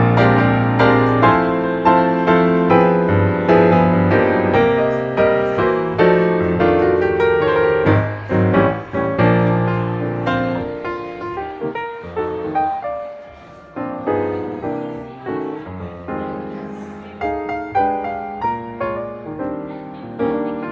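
Background piano music: a run of struck piano notes over sustained low bass notes, thinning out and softening about two-thirds of the way through before picking up again.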